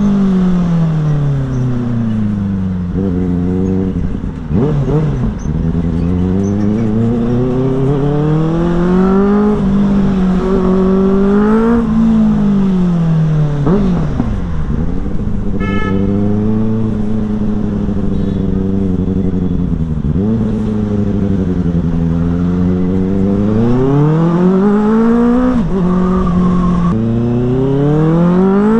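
Benelli motorcycle with a modified exhaust, ridden on the road. The engine revs rise and fall again and again as it accelerates and backs off, about a dozen times.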